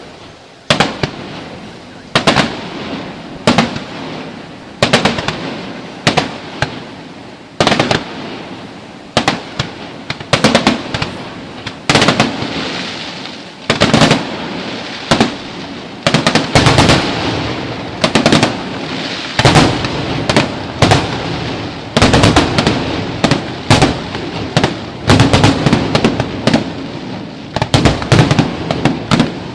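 Aerial fireworks display: a rapid string of sharp bangs from shells bursting, one every half second to second, with crackling between them that thickens into near-continuous crackle over the second half.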